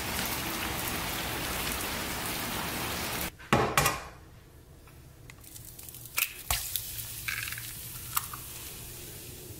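Steady rain for about the first three seconds. Then a short sharp crack as an egg is broken into a nonstick frying pan. The egg fries quietly after that, with a few light clicks.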